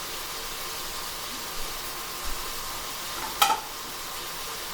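Beef frying in a pan, a steady sizzle, with a single sharp clink about three and a half seconds in.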